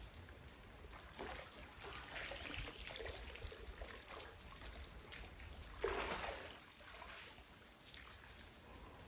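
Water trickling and splashing in the rain, with a louder splash of water about six seconds in.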